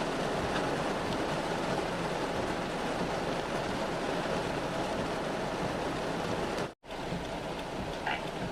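Steady rush of heavy rain and running water, cut off for a split second about seven seconds in before resuming.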